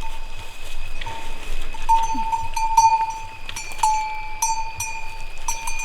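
A metal bell ringing, struck again and again at irregular intervals. Each strike sets off a sustained ringing tone.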